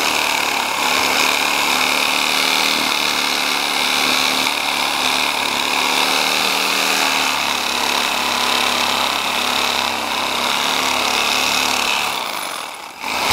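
A power tool's motor running steadily under load, dropping off sharply near the end.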